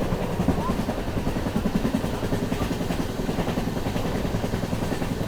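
Passenger express train running at speed, a steady low rumble with a rapid flutter through it.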